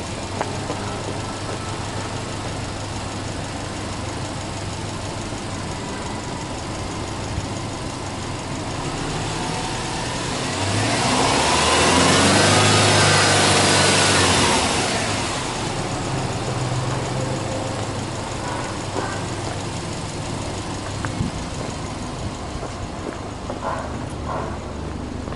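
Subaru Impreza WRX STI turbocharged boxer flat-four engine idling steadily. About ten seconds in it is free-revved once: the pitch climbs, is held high for about three seconds, then drops back to idle.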